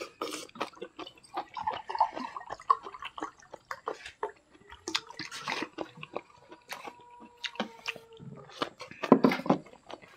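Close-up chewing and mouth clicks of two people eating chicken and rice with their hands, with many short sharp clicks. The loudest cluster comes about nine seconds in.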